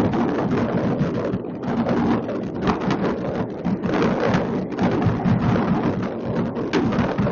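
Many fireworks going off at once across a city, their bangs and crackles blending into a continuous rumble with sharper reports scattered through it.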